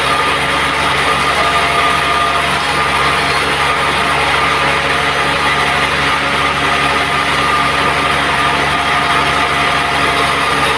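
Sawmill machinery running steadily, a continuous engine-like drone with a steady whine through it.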